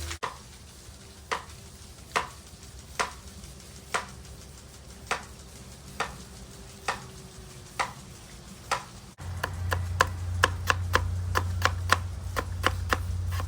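A knife chopping vegetables on a cutting board: single cuts about once a second at first, then, after a break in the sound, quicker chopping at about three cuts a second over a low steady hum.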